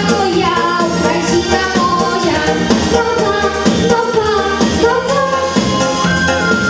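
A song performed live with singing over instrumental backing that keeps a steady beat.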